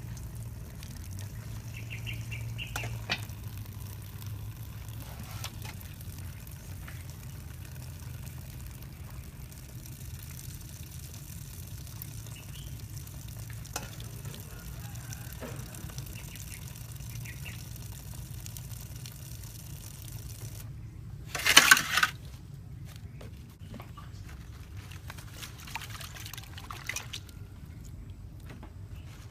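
Water poured and handled during kitchen preparation, with light clicks and knocks over a low steady hum. A brief loud rush of water comes about three-quarters of the way through.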